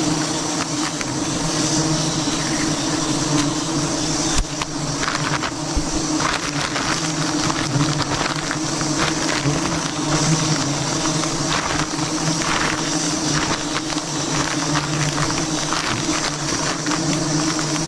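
Swarm of honeybees buzzing steadily and densely around a wild nest, with scattered faint clicks and crackles.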